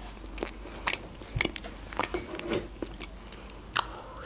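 A person chewing a soft jam-filled bun with her mouth, making small wet clicks and smacks. Near the end comes a sip from a mug.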